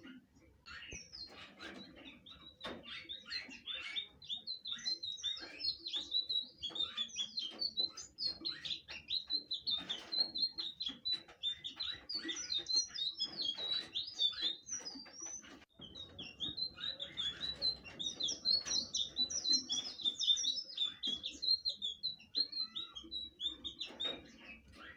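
Blue flycatcher (sikatan biru) singing a long, fast run of varied chirping notes, with a short break about 15 seconds in.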